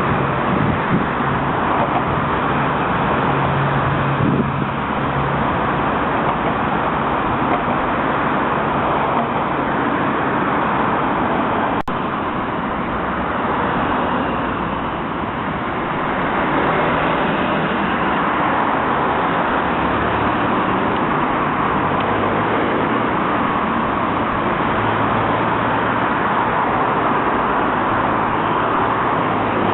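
Steady city street traffic noise: trams and cars running past, with a low motor hum at times.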